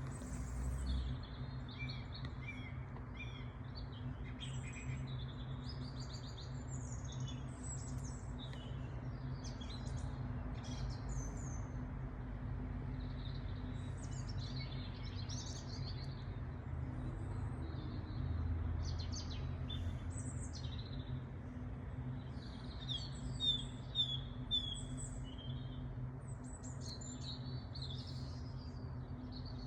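Songbirds singing and chirping, many short calls and trills overlapping throughout, over a steady low hum.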